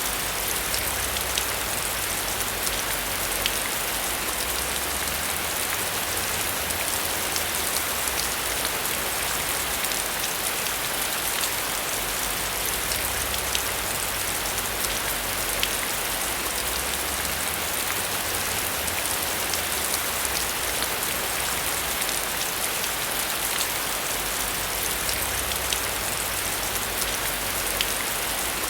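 Steady heavy rain falling, with scattered sharp ticks of single drops striking a surface.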